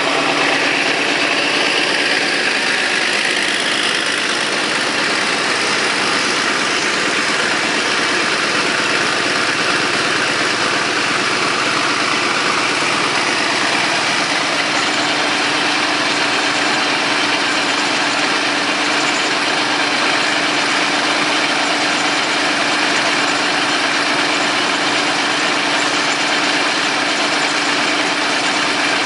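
Vintage Caterpillar D13000 diesel engine running steadily at an even speed.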